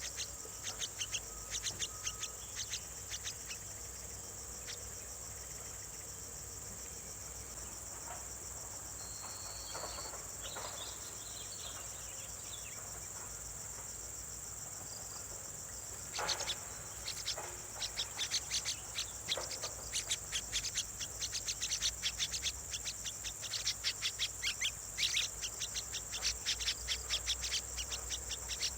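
Nestling birds begging for food with rapid, sharp, high calls, several a second; they stop for a long stretch and start up again past the middle. A steady high-pitched insect drone runs underneath.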